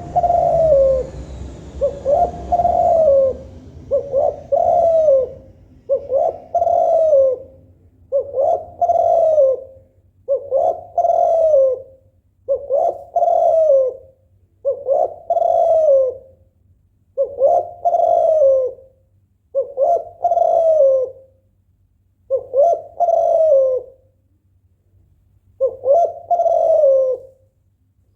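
Female spotted dove (tekukur) cooing in breeding condition, a call that invites a male to start singing. It gives over a dozen short coos, one about every two seconds, with a slightly longer pause near the end.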